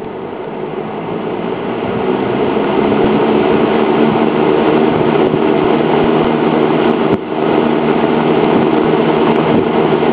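Vintage Berns Air King 12-inch box fan with its Universal Electric motor running on high speed: a steady rush of air over a motor hum. It grows louder over the first few seconds as the fan comes up to speed, then holds steady.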